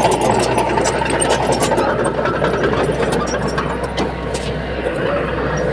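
Diesel engine of earthmoving machinery running steadily, with a few short clanks of metal.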